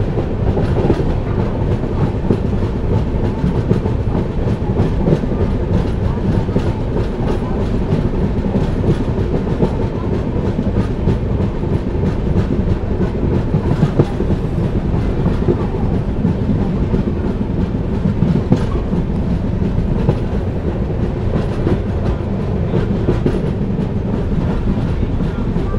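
Passenger train coaches running steadily along the track, heard from an open coach window: a continuous low rumble of wheels on rails with a light clatter of wheel clicks over the rails.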